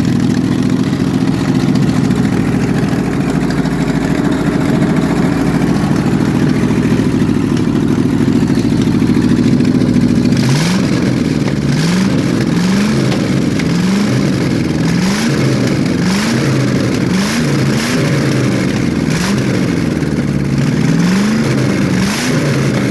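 Newly installed Ford car engine idling steadily just after starting. About halfway through it is revved in short blips, rising and falling roughly once a second until the end.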